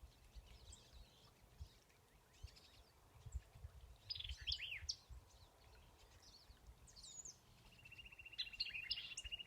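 White-eyed vireo singing faintly: short, chattery phrases with sharp chip notes, among other bird calls. Near the end a rapid, even trill on one pitch starts up.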